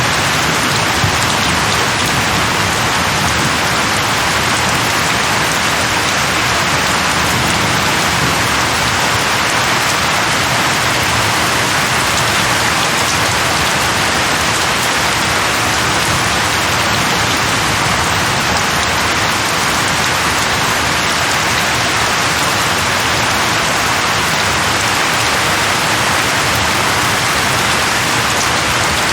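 Steady heavy rain falling on a surface, an even hiss that holds at one level throughout.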